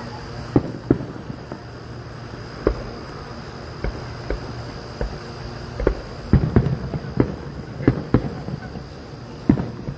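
Fireworks bursting: about a dozen sharp bangs at irregular intervals, coming closer together in the second half.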